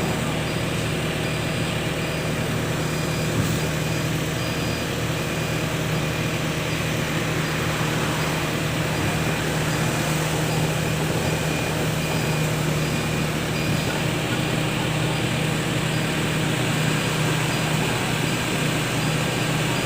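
Truck engine running steadily, a constant low drone with no change in speed.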